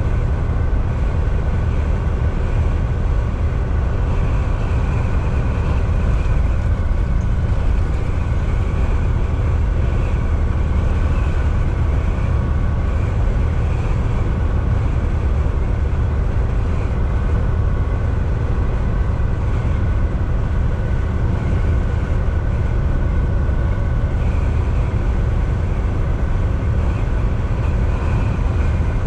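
Volvo VNL 760 semi truck cruising on the highway, heard from the driver's seat: a steady low diesel engine drone with road and tyre noise.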